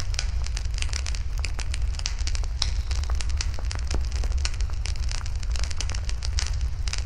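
Wood fire burning steadily, with many small irregular crackles and pops over a constant low rumble.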